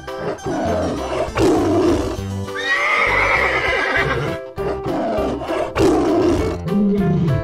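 Children's cartoon music with a steady beat, with cartoon animal calls laid over it: a rough call about a second and a half in, a high wavering call about three seconds in, and another rough call about six seconds in.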